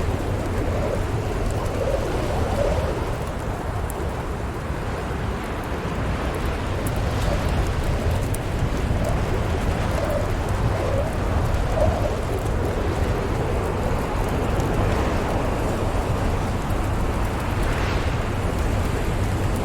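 Storm ambience of steady, rumbling wind with brief howling tones that come and go, and faint crackles of a wood fire.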